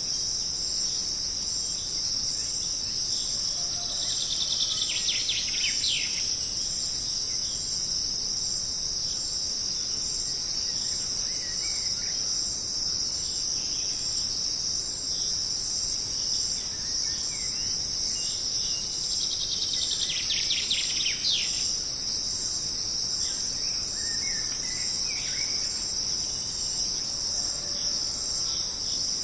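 A steady, unbroken chorus of insects, crickets among them, in jungle ambience. A bird cuts through twice with a rapid trill that drops in pitch, about five seconds in and again about twenty seconds in, and short chirps of other birds come and go.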